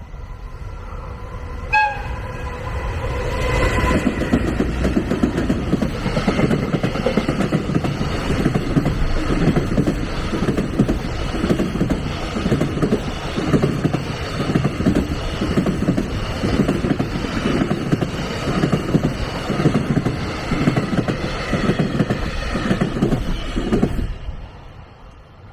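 A train passing close by, sounding its horn as a chord of steady tones with a brief break at the start. Its wheels then clack over the rail joints in a steady rhythm for about twenty seconds before the sound cuts off.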